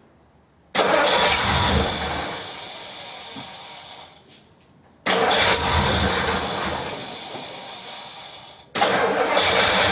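1957 Ford Thunderbird's V8 being started three times in a row. Each attempt comes in suddenly and fades over a few seconds before stopping; the last one carries on running. The engine is hard to start on the carburettor's original metering plate.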